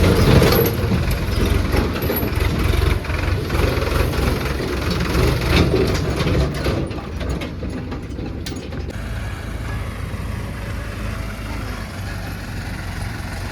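Diesel tractor engine running, with metallic clanks and rattles from loader work. About 9 s in, the clanking stops and the engine settles to a quieter, steady run.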